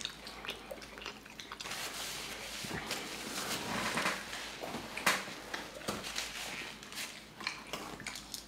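Wet, close-miked chewing and lip smacking of sauce-drenched seafood boil, full of sharp little clicks, with a paper napkin crinkling through the middle.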